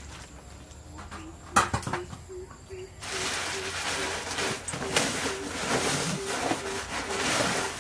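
A bird repeating a short low call about two and a half times a second, with a sharp click about a second and a half in and a steady hiss from about three seconds in.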